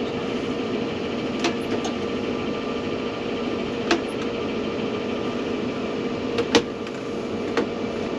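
Large tractor idling, heard from inside its closed cab: a steady engine and blower hum with one constant tone. Several sharp clicks are scattered through it, the loudest about six and a half seconds in.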